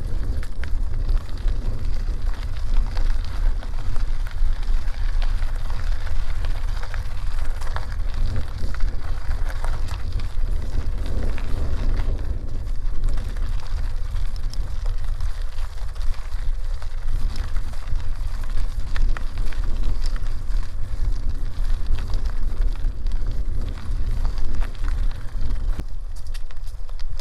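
Bicycle on the move: a heavy, steady rumble of wind on the microphone, with bicycle tyres crackling over a dirt road.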